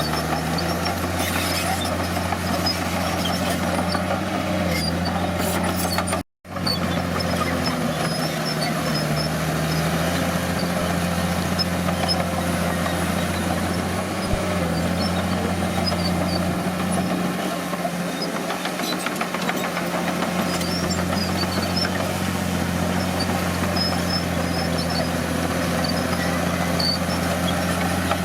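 Crawler bulldozer's diesel engine running steadily at a constant low hum. The sound cuts out completely for a moment about six seconds in.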